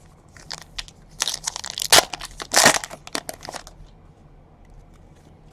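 Foil wrapper of a baseball card pack crinkling and crumpling in the hands, a dense run of sharp crackles with the loudest about two seconds in and again just after.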